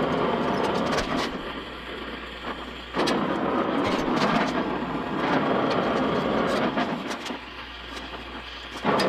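Welding in bursts with sharp starts and stops, a crackling hiss: one burst ends about a second in, a longer one runs from about three to seven seconds, and another begins near the end. A low steady hum carries on between the bursts.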